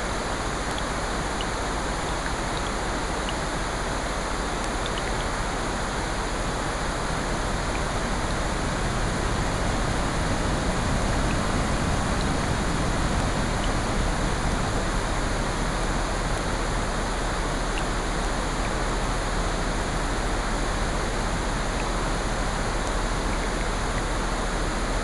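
A steady layered wash of rain and ocean surf, with faint scattered crackles from a fire, swelling slightly about ten seconds in as a wave builds.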